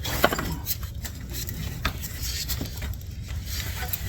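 Scattered light metallic clinks and taps of a grease gun and steel parts being handled, over a steady low hum.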